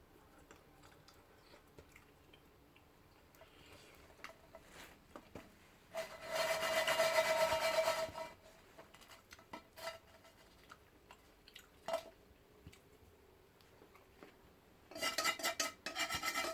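A utensil scraping the burnt bottom of a frying pan: a harsh rasping with a ringing metal tone, in two bouts, one of about two seconds around six seconds in and another starting about fifteen seconds in. Faint scattered ticks between the bouts.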